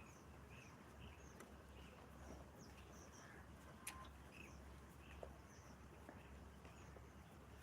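Faint chirping of small birds, short calls repeating a few times a second, over a low steady hum, with one sharp click about four seconds in.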